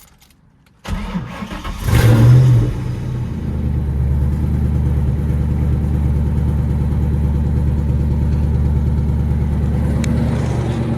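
Ford Mustang GT's 4.6-litre two-valve V8, mufflers still fitted, being started: the starter cranks about a second in, the engine catches with a brief rev flare, then settles into a steady idle that is pretty quiet for a V8.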